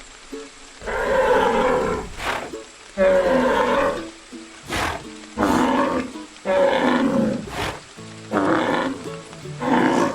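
Zebu calling, a series of about seven lowing calls, each roughly a second long, over background music.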